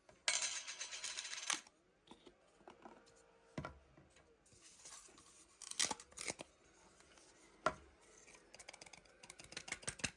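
Packaging being cut and torn open: a loud rustling rip lasting just over a second near the start, then scattered clicks and crinkles, and a quick run of small clicks near the end.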